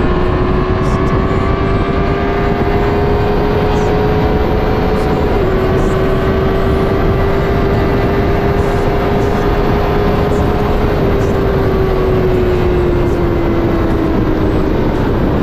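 Honda CBR650R inline-four with an aftermarket full exhaust, running under way at steady, slowly rising revs. The revs dip briefly twice, about five and eleven seconds in, then fall away over the last few seconds as the bike slows. Heavy wind rush on the microphone runs underneath.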